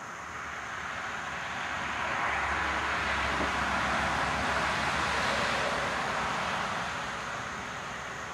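Steady hiss of heavy rain, with a rushing swell that rises about two seconds in and fades again over the next five seconds, with a low rumble under its loudest part.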